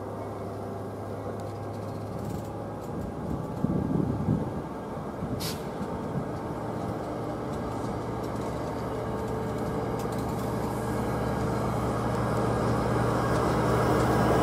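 Diesel commuter train engine running with a steady low drone that grows louder toward the end as the train draws near, with a short rough rumble about four seconds in and a single sharp click a little later.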